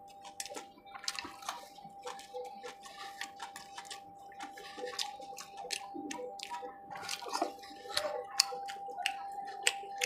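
Close-miked wet chewing and mouth clicks while fingers pick through pieces of fried chicken liver on a steel plate: many short, sticky clicks at irregular intervals, with a steady faint hum underneath.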